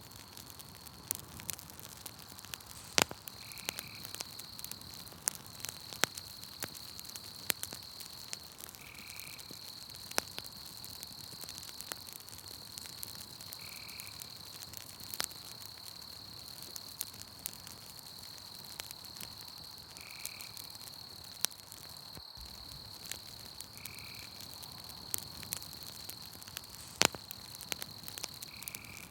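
Campfire crackling with scattered sharp pops, two of them louder, over a steady high-pitched insect trill. A short, lower call repeats every four to six seconds.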